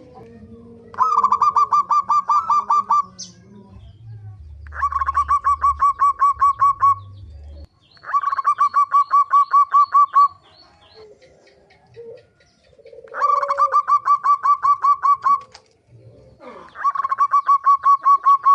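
Zebra dove (perkutut) giving the pikat call: rapid runs of staccato notes, five bouts of about two seconds each, with short pauses between them.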